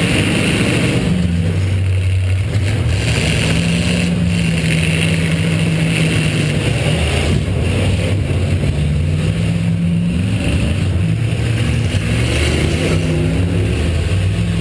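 V8 engine of a welded-class demolition derby car revving up and down, its pitch rising and falling repeatedly as the car is driven hard.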